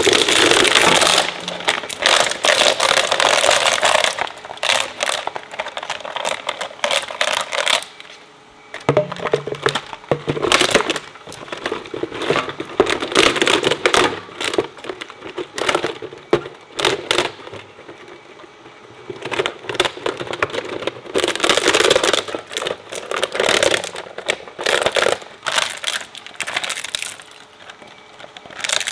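Industrial shredder crunching plastic, with dense cracking and snapping that comes in several loud bursts and eases to lighter crackling between them.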